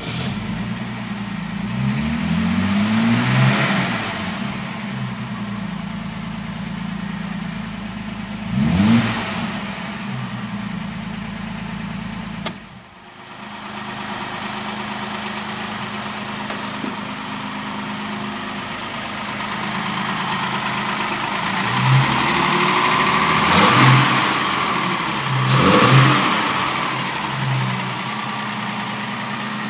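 1965 Mercedes-Benz 230SL's fuel-injected straight-six idling and being blipped: a few quick rises in revs two to four seconds in, another near nine seconds, and a run of short blips in the last third.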